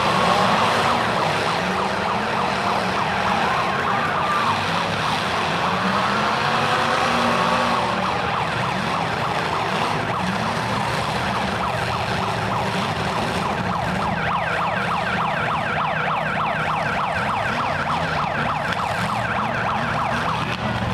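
Demolition derby cars' engines running and revving, their pitch rising and falling, with a fast rattling pattern joining in during the second half.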